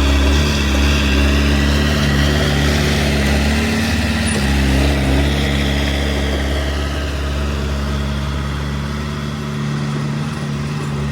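Diesel engine of construction machinery running steadily, with a small shift in pitch partway through.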